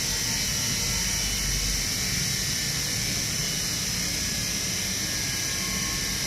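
IFB front-load washing machine running, a steady motor whir with a high hiss.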